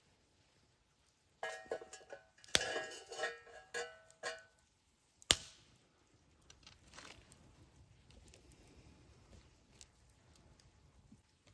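Metal cooking gear and utensils clinking and ringing against each other for about three seconds, then a single sharp knock.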